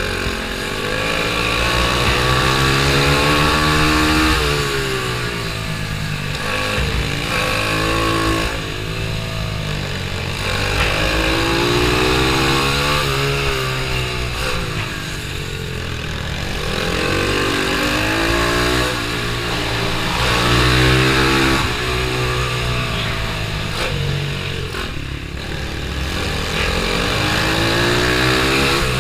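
Pit bike engine racing around a kart track, its pitch climbing as it accelerates and dropping back off the throttle, over and over.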